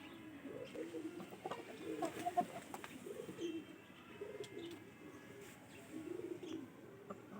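A bird giving low, soft calls over and over, with a few faint clicks.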